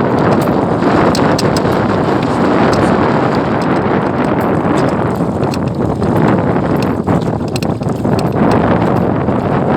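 Strong wind buffeting the microphone: a loud, steady rumbling rush, with scattered small irregular clicks and knocks through it.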